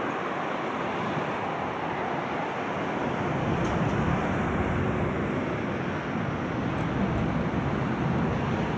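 Electric train running across a steel truss railway bridge, heard across open water as a steady rumble that grows a little louder about three seconds in, mixed with wind on the microphone.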